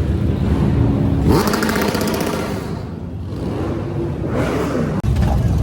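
Motorcycle engines running and revving, a steady low rumble with the revs climbing about a second in and again near the end.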